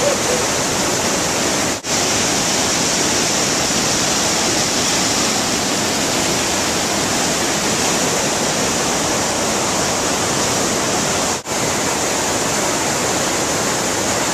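Bridalveil Fall rushing with a loud, steady hiss of falling water and spray. It cuts out for a moment twice, about two seconds in and near eleven seconds.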